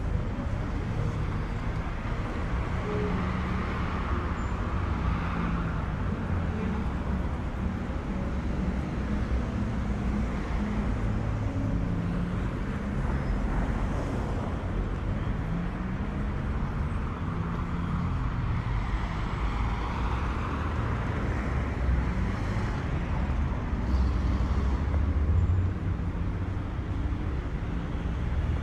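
City street traffic: a steady low rumble of engines, with cars passing close by about 4 seconds in and again about 20 seconds in.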